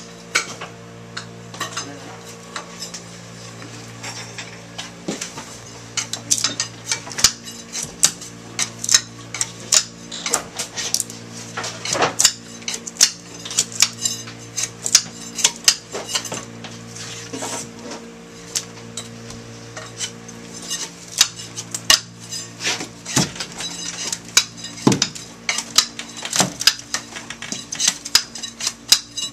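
Irregular clattering and sharp clinks of hard objects being handled and knocked together, over a steady mechanical hum.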